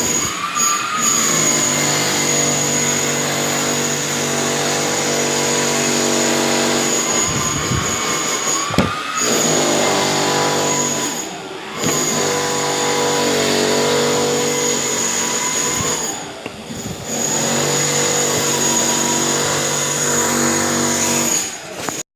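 A motor running steadily, with a few brief dips in level and pitch, then cutting off suddenly near the end.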